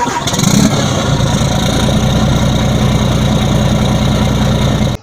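Scania R440 truck's diesel engine running steadily, a little louder for a moment about half a second in, then cutting off suddenly near the end.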